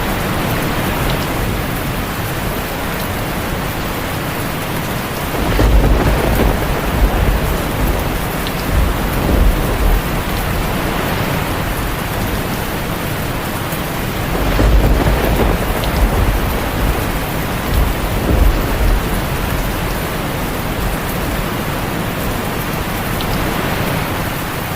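Steady heavy rain, with rolls of low thunder rumbling twice, about five seconds in and again around fifteen seconds in.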